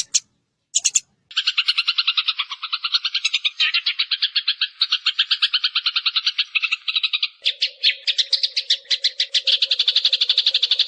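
Sparrow decoy call recording: after two short bursts, dense rapid chirping, many chirps a second, runs on without a break. A low steady hum joins it about two-thirds of the way in.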